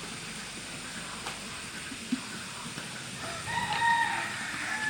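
A rooster crowing once, a long held call beginning about three and a half seconds in, over a faint steady hiss.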